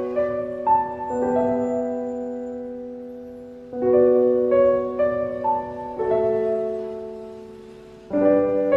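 Slow solo piano music: sustained chords struck about every four seconds and left to ring and fade, with a few gentle melody notes over them.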